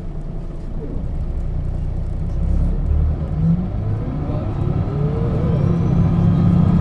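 Diesel engine and ZF gearbox of a 1996 Setra S 315 UL bus pulling away under acceleration: a low engine drone that grows steadily louder, with a thin gearbox whine that rises and then falls in pitch partway through.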